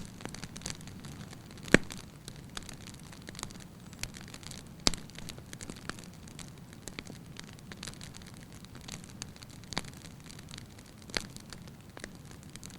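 Logs burning in a fireplace: a steady low rush of flames under irregular sharp crackles and pops. The loudest pops come about two seconds in and again near five seconds.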